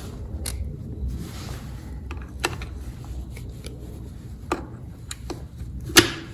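Scattered mechanical clicks from a 2021 KTM 300 XC-W TPI's gearbox and shift mechanism as it is worked through the gears, with the sharpest click about six seconds in. The transmission's shift drum is broken.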